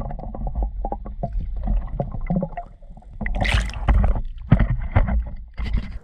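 Handling noise aboard a fishing kayak: repeated knocks and rubbing against the boat over a loud low rumble, cutting off suddenly at the end.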